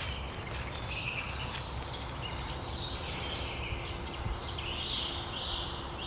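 Woodland birds singing and calling, with short chirping phrases that come more often in the second half, over a steady low rumble.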